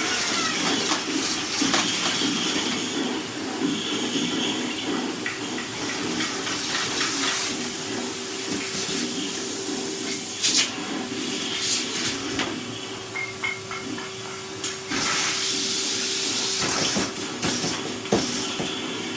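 Henry canister vacuum cleaner running with a steady motor hum and airy hiss. Its rush grows louder about halfway through and again about three-quarters through as it sucks up food.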